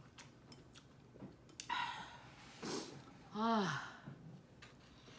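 A woman lets out a falling "ah" sigh about three and a half seconds in, after a couple of short breathy sounds.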